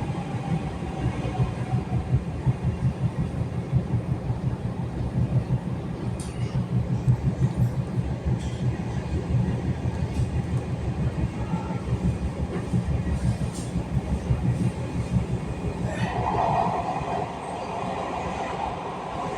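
MARTA Breda CQ312 rapid-transit train running on the track, heard from inside the car: a steady low rumble of wheels and running gear, with a faint falling whine at the start. A harsher rushing sound joins about three-quarters of the way through.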